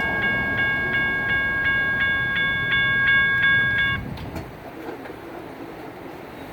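Railroad crossing's General Signals Type 1 electronic bell ringing steadily, about three dings a second, over the low rumble of a passing light rail train. The bell cuts off suddenly about four seconds in, as bells at this crossing ring until the gates rise.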